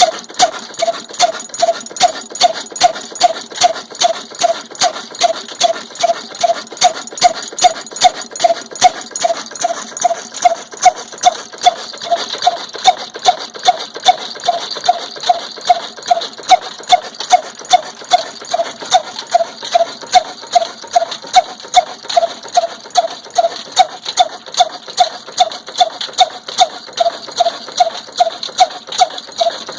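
Old black desi single-cylinder diesel engine running steadily while driving a chakki flour mill, with sharp, even exhaust beats about twice a second, each with a short ringing note.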